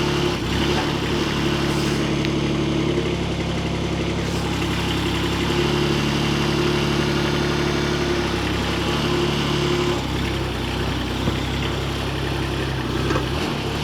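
Hytop HT20 Pro mini excavator's engine running steadily, its note shifting a few times as the operator works the boom-swing hydraulics.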